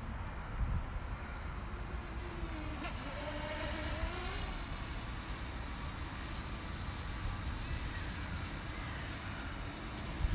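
Strong wind rumbling on the microphone, with a motor's hum wavering in pitch for a couple of seconds a few seconds in.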